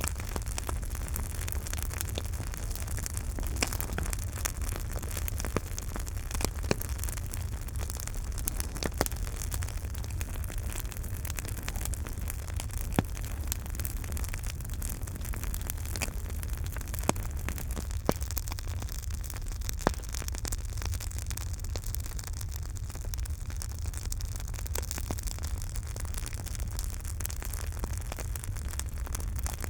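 Campfire burning: a steady low rumble and hiss under irregular crackles and pops, with a handful of louder snaps scattered through.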